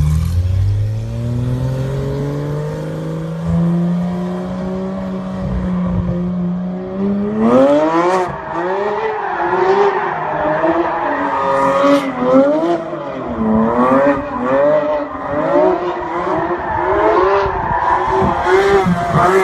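A car's engine and exhaust climbing slowly in revs for about seven seconds, then revving up and down again and again, with tyre squeal mixed in from there on.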